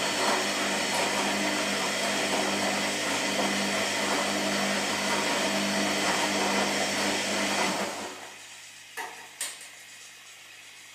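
Washing machine running with a steady motor hum and whir, which dies away about eight seconds in, followed by two short clicks.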